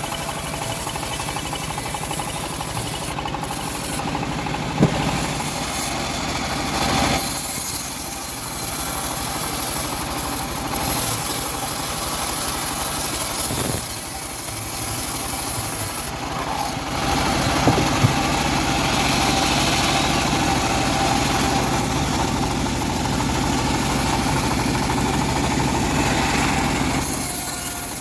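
Homemade bandsaw mill running with a steady mechanical drone as its blade saws through an old teak log. The sound grows harsher for stretches partway through, with a sharp knock about five seconds in and two more close together around eighteen seconds.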